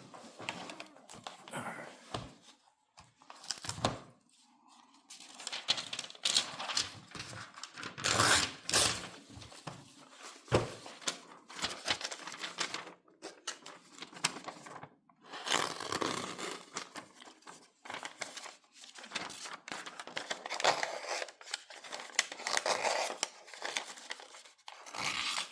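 Paper being handled and sliced with a freshly sharpened kitchen knife: a run of irregular dry rustling and hissing cuts with short pauses between them.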